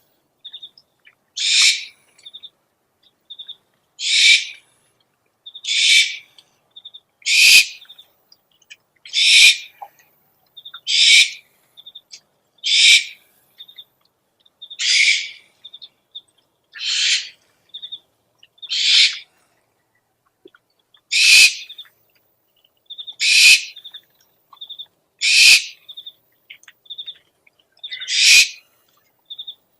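An owl lure recording of repeated rasping owl screeches, one about every two seconds, with short high chirping notes between them.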